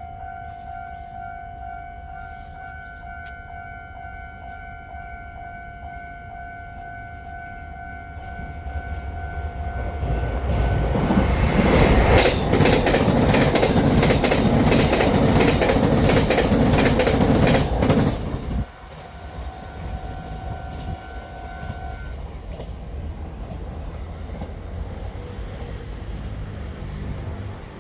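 A train passing through the station at speed, with rapid wheel clatter over the rail joints. It builds from about 8 seconds in, is loudest for about six seconds, and drops off sharply. A steady warning tone sounds before the pass and for a few seconds after it.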